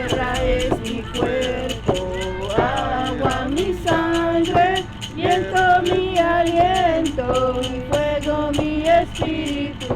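Ceremonial singing with a shaken rattle keeping a steady beat of about four shakes a second.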